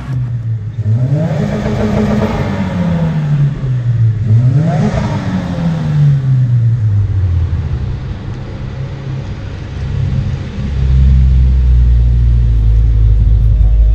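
Subaru WRX's turbocharged flat-four engine as the car drives past: the revs rise and fall twice, then settle into a steady low drone from about ten seconds in.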